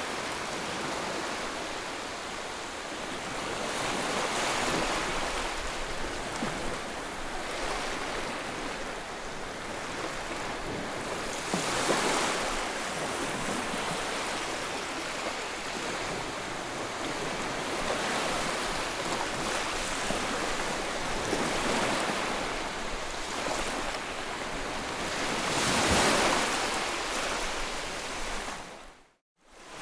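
Ocean waves washing onto a shore: a continuous hiss of surf that swells with louder breakers every several seconds. Near the end the sound cuts out suddenly for about half a second, then resumes.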